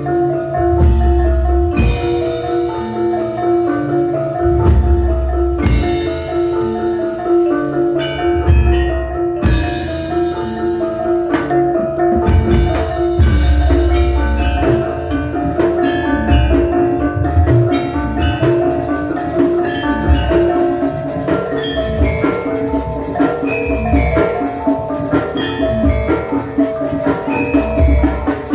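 Javanese gamelan ensemble playing a gending: bronze mallet instruments ring out a melody over deep kendang drum strokes. In the first half, sharp struck accents ring out every few seconds; after that the playing thickens into a denser, steadier texture.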